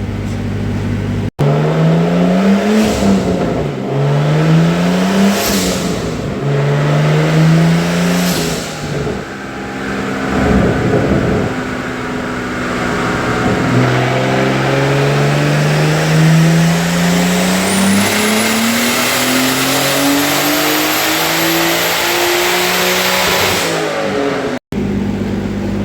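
Turbocharged Nissan RB25DE NEO straight-six engine with a 5858 turbo at full throttle. It revs up and drops back several times, then climbs in one long pull of about ten seconds with a rising turbo whistle, and cuts off suddenly.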